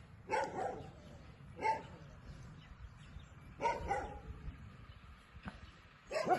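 Four short animal calls, a second or two apart, over a faint low background rumble.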